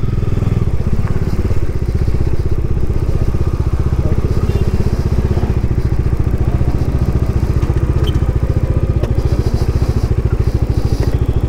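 Bajaj Dominar motorcycle's single-cylinder engine running steadily with an even, rapid beat.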